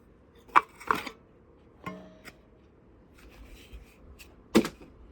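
Parts and packaging of a newly unboxed drill bit sharpener being handled: a few sharp clicks and knocks, with the loudest about half a second in and near the end, and light rustling between.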